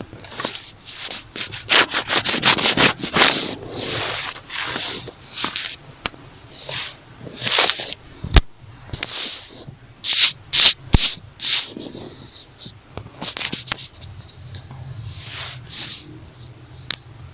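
Close-up ASMR scratching and rubbing on a notebook cover: irregular quick strokes of scratchy, hissing friction, with a few sharp clicks along the way.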